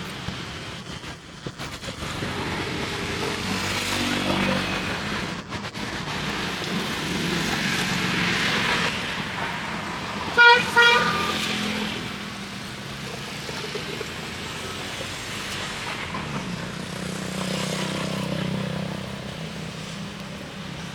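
Street traffic passing, with a vehicle horn giving two short toots about halfway through and engines passing with a low hum near the end.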